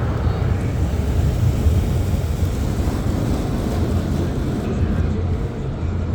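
Car wash equipment running: a steady, loud rumble with a haze of noise above it.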